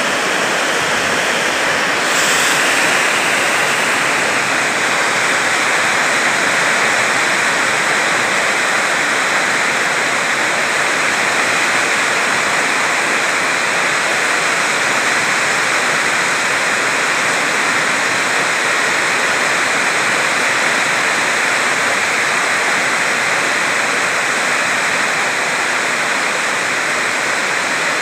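Heavy rain pouring down in a steady, loud, dense hiss.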